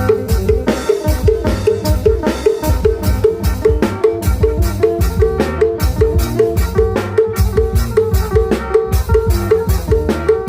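Isan klong yao prayuk (applied long-drum) band music: drums and drum kit beating a fast, steady rhythm under a short, repeating melodic figure.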